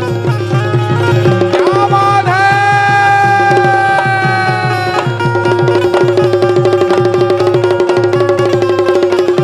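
Bundeli folk music instrumental: fast, dense hand-drum rhythm over a steady drone note, with a long held melodic note that slides up at its start and holds from about a second and a half in to about five seconds.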